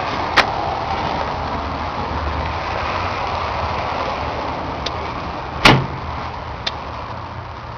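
John Deere 8400 tractor's six-cylinder diesel engine running steadily. A sharp knock comes about half a second in, and a louder clunk near six seconds, with a couple of light ticks around it.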